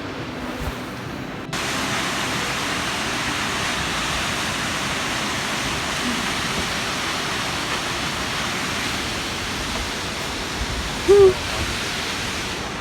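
Steady roar of rushing waterfall water, starting abruptly about a second and a half in. About eleven seconds in, a brief loud pitched sound stands out over it.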